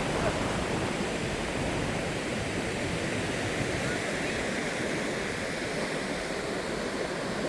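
Steady rushing noise of surf and wind outdoors at night, with wind buffeting the microphone; no distinct events stand out.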